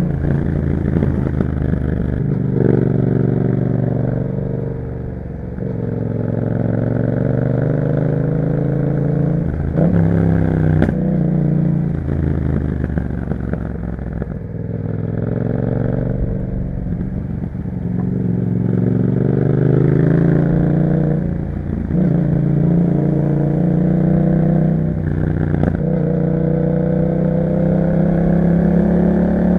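Yamaha MT-07's parallel-twin engine through an Akrapovič exhaust, under way. The revs climb repeatedly and drop back sharply at each gear change, with a few stretches where it eases off and the pitch falls.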